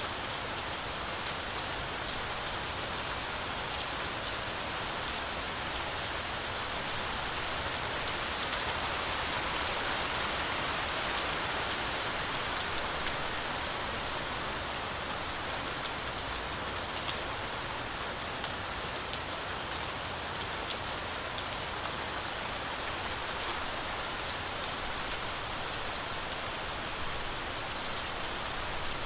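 Heavy rain falling steadily through a forest canopy, a dense even hiss with scattered sharper drop ticks; it swells slightly about a third of the way through.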